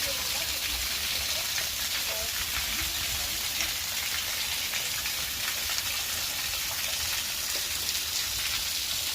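Waterfall: a steady, even rush of falling water with a fine spattering hiss.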